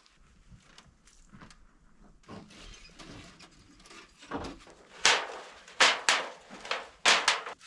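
Gear being handled: faint clicks, then from about five seconds in a handful of short, loud scraping or sliding bursts.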